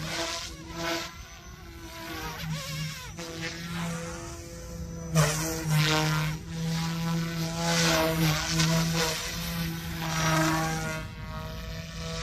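Goosky S2 brushless electric RC helicopter flying 3D aerobatics: a steady rotor and motor hum, with blade whooshes that surge several times as the rotor pitch swings.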